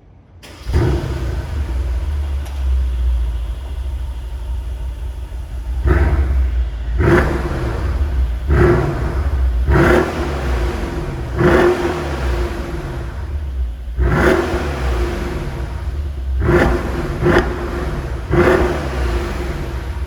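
Mercedes-AMG S 63's twin-turbo V8 cold start: the engine fires about half a second in and settles into a loud, high cold idle through the exhaust. From about six seconds on it is blipped over and over, roughly a dozen short revs, each dropping back to idle.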